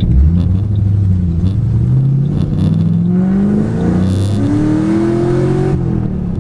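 2008 Ford Mustang GT's 4.6-litre three-valve V8, running on new MSD Blaster coil-on-plug coils, pulling under acceleration. Its pitch climbs steadily for a few seconds, then breaks off briefly near the end at an upshift.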